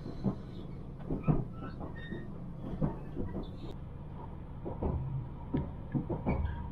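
Passenger train running along the track, heard from inside the carriage: a steady low rumble with irregular knocks and rattles.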